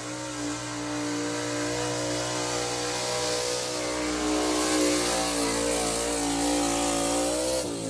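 Engine of a pulling tractor running hard under load, its note held high and steady as it grows louder, then falling in pitch near the end as it lets off.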